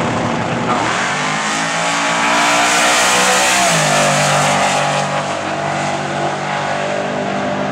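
Ford drag-race car engine at full throttle, accelerating hard down the strip. The engine pitch climbs, drops sharply once about four seconds in, then runs steady.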